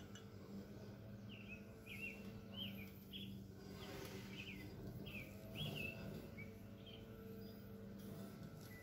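Faint outdoor birdsong: a series of short, quick chirps repeating for several seconds, over a low steady hum.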